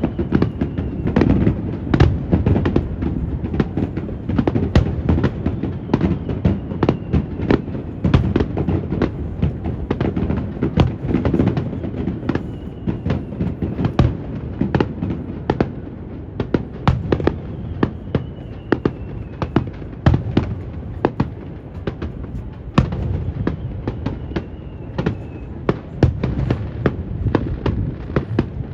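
Fireworks display: a dense, continuous stream of sharp bursts and crackling reports, several a second, with a few faint thin whistles sliding down in pitch. A steady low rumble of wind on the microphone lies under it.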